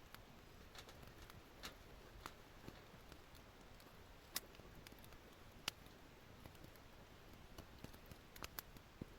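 Wood campfire crackling softly, with scattered small pops and two sharper pops a little past the middle.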